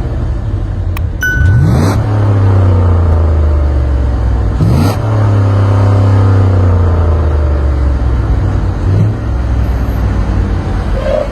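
Truck engine revving hard, its pitch climbing sharply about a second and a half in and again near five seconds, then holding a deep, steady run. A brief high beep sounds just after the first second.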